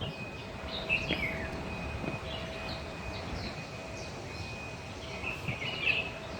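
Many small caged birds chirping, short high chirps overlapping, with the busiest flurries about a second in and near the end.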